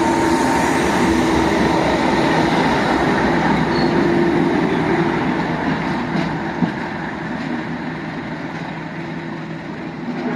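Class 37 diesel locomotive's English Electric engine running with a steady low drone, growing gradually fainter over the second half.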